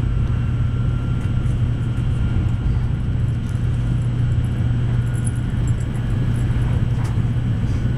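Cabin noise inside a moving Tokaido Shinkansen N700A train: a steady low rumble and hum from the running gear and track. A faint high whine fades out in the first few seconds.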